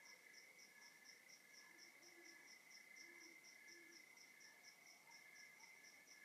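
Crickets and other night insects chirping in the dark, faint: one chirps in even pulses about five times a second over a continuous trill from others. A few faint low calls sound in the middle.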